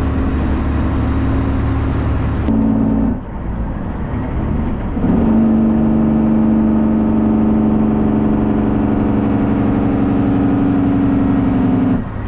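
Straight-piped Detroit Diesel 12.7-litre Series 60 inline-six in a Freightliner truck, pulling under way with a loud, steady exhaust drone. The sound dips briefly about three seconds in, comes back louder and holds steady, then drops again near the end.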